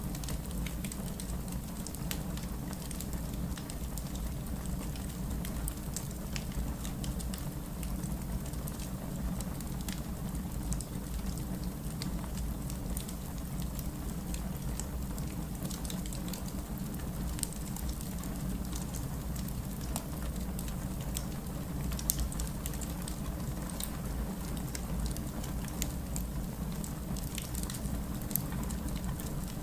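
Wood fire crackling in a fireplace: a steady low rumble of flames with frequent small sharp pops and snaps, a few louder pops in the second half.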